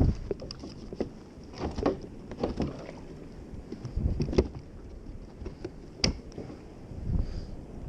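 Kayak on the water: scattered light knocks and splashes against the hull over a faint steady hiss.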